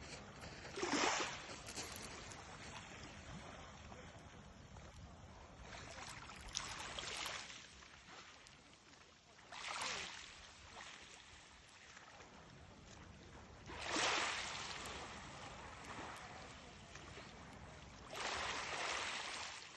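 Sea water splashing and rushing in surges every few seconds, over a steady low rumble.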